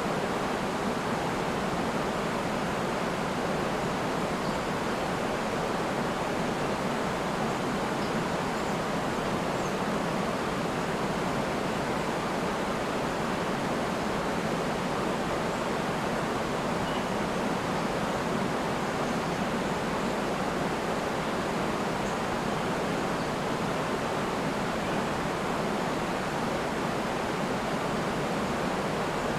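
River and waterfall: a steady, unbroken rush of flowing and falling water.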